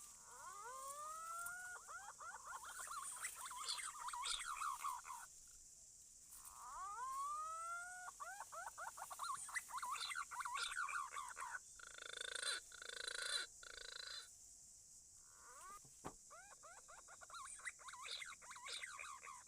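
Recorded green pigeon calls played back as a bird lure. Each sequence opens with a couple of rising whistles and goes into fast runs of short falling whistled notes, then cuts off abruptly and starts over, several times. A harsher, buzzy patch of notes comes in the middle.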